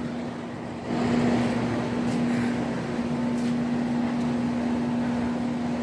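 2006 Rheem Classic 3-ton straight-cool central air conditioner's outdoor condensing unit running in cooling mode: a steady hum over the rush of the condenser fan, a little louder about a second in.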